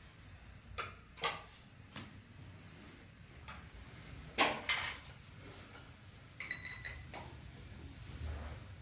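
A series of sharp clinks and knocks of hard objects, about seven spread across several seconds, the loudest pair about four and a half seconds in. Just after six seconds comes a brief high ringing sound.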